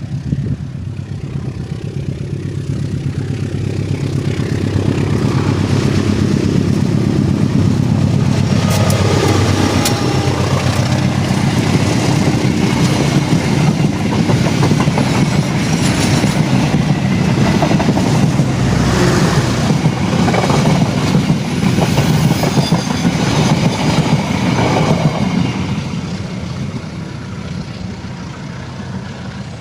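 A train running past: a low rumble builds over the first several seconds, wheels click over the rail joints through the middle, and the sound fades near the end.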